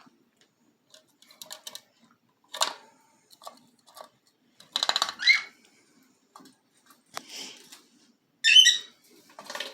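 Pet parrots calling: a few short squawks and chirps a second or two apart, the loudest a warbled call near the end.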